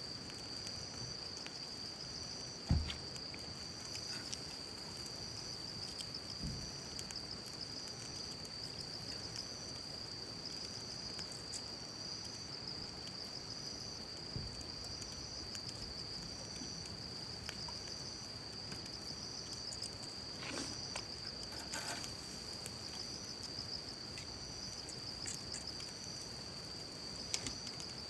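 Insects trilling steadily, a continuous high note with a second note pulsing about once a second above it. Scattered faint clicks and a single soft thump about three seconds in.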